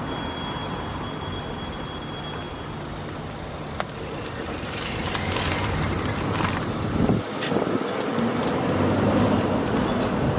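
Vehicle noise at a level crossing: a rumbling pass that grows louder from about four seconds in. A set of steady high-pitched tones sounds at first and stops about two and a half seconds in.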